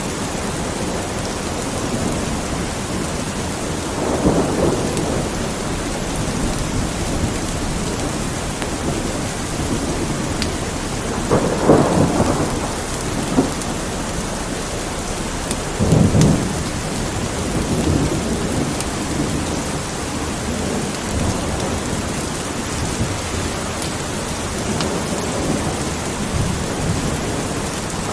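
Steady rain with thunder rumbling low several times, the strongest swells about 4, 11 and 16 seconds in.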